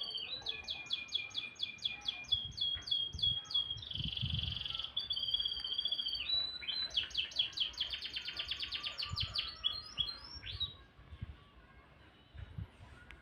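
Domestic canary singing: quick trills of rapidly repeated notes, broken by a few held whistled notes. The song stops about three-quarters of the way through.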